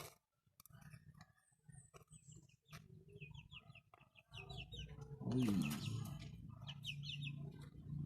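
Faint scattered clicks at first, then from about four seconds in chickens clucking and chirping over a low steady hum.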